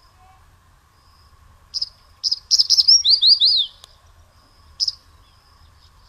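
Songbird chirping: a couple of sharp chirps, then a quick burst of rapid, sweeping notes about two seconds in, and one more chirp near the end, over a faint steady insect drone.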